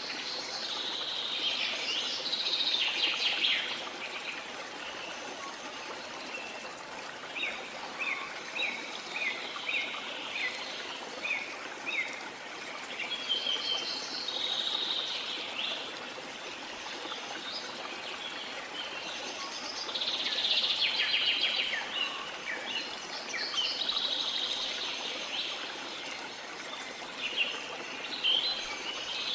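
Steady rush of a waterfall with birds calling over it: several bursts of song, and a run of short repeated notes between about seven and twelve seconds in.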